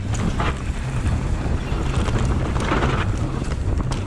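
Wind noise on the action camera's microphone and steady tyre-and-trail rumble as a mountain bike rolls down a singletrack descent, with brief louder rushes of noise about half a second in and again near three seconds.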